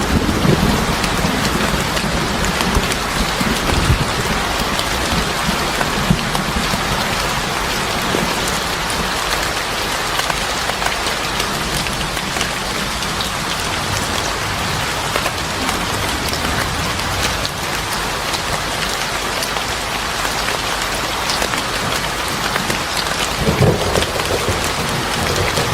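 Steady heavy rain pattering on a surface. A low rumble of thunder comes near the start and again near the end.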